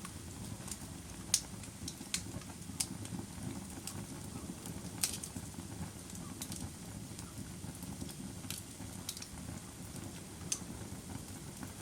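Bonfire crackling: scattered sharp pops and snaps at irregular intervals over a steady low rush.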